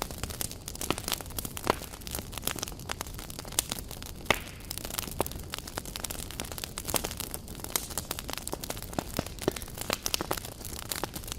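Wood campfire crackling, with many irregular sharp pops over a low steady rumble of the flames.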